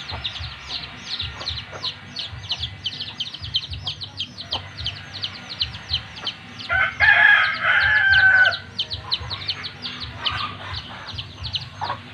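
A rooster crows once about seven seconds in, a call of about two seconds and the loudest sound here, over a steady run of quick, high, falling chirps, about four or five a second.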